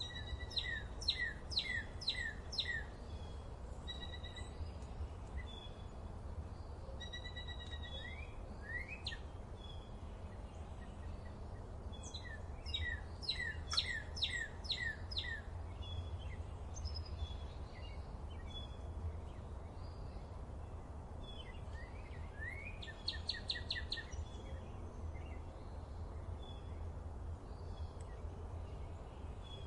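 Birds singing in a forest: one bird repeats a phrase of quick, high, downward-sweeping notes three times, about ten seconds apart, with scattered chirps from other birds between. A steady low rumble runs underneath.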